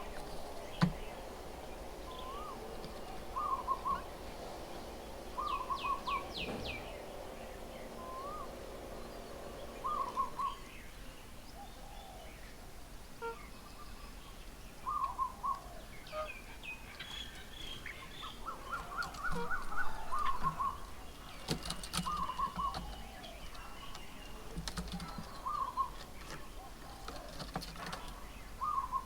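Wild birds calling: one bird repeats a short two-note call every couple of seconds, with other birds chirping now and then and a busier run of calls about two-thirds of the way through.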